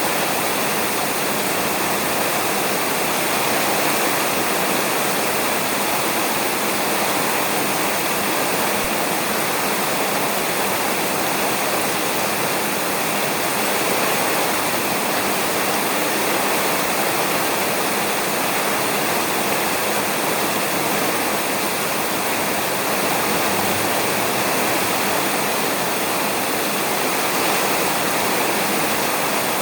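Steady rain falling on a roof: a dense, even hiss with no thunder in it.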